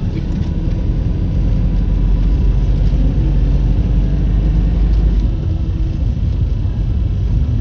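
Low, steady rumble of a motor vehicle, swelling in the middle and easing slightly after about five seconds.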